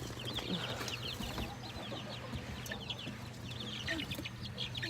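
A flock of chickens calling: many short, high chirping calls overlapping, over a steady low hum.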